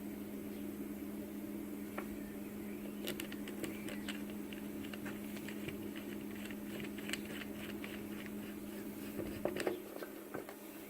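A steady electrical hum, joined after about three seconds by a scatter of light clicks and ticks, then a few soft knocks near the end.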